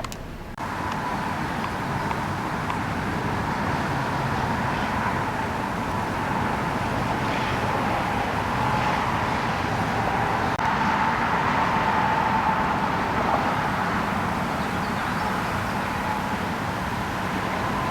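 Steady rushing noise of strong thunderstorm wind and rain, with a faint, slightly wavering whistle-like tone running through it. It gets louder about half a second in.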